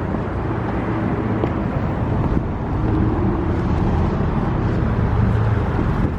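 Steady low vehicle hum and rumble, like nearby road traffic or a running car.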